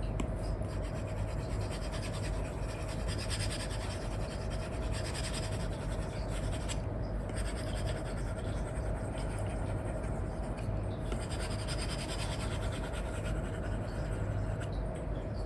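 Apple Pencil tip with an Elecom replacement nib scratching across a paper-like screen film on an iPad as strokes are drawn, in long scratchy stretches with brief pauses about 7 and 11 seconds in.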